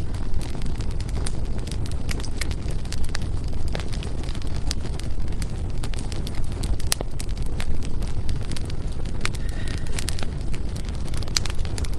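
Firewood burning in a fireplace, with frequent irregular sharp crackles and pops over a steady low rumble.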